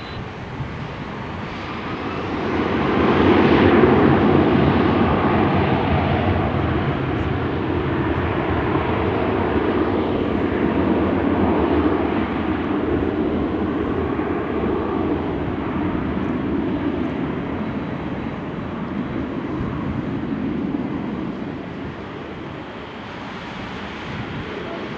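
Jet airliner engines running, swelling to their loudest about three to four seconds in and then slowly fading.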